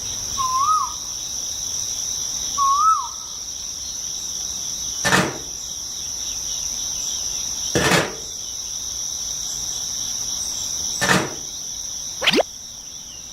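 Steady high-pitched insect trill, cricket-like, with two short warbling chirps near the start. Three loud brief knocks, a few seconds apart, and a quick rising sweep near the end sound over it.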